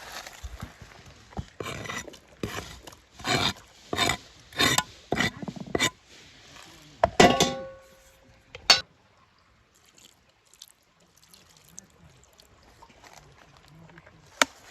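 Cookware being handled: a run of short scraping or pouring strokes, then a pot or dish clinks once and rings briefly, followed by two sharp clicks.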